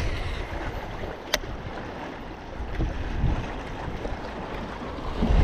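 Strong gusting wind rumbling on a chest-mounted microphone despite its wind muff, over choppy water moving around a small boat, with a single sharp click about a second in.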